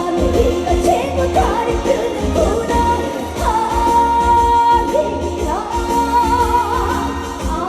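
Live trot song: a woman singing over an amplified band backing with a heavy, steady bass beat, holding one long wavering note through the middle.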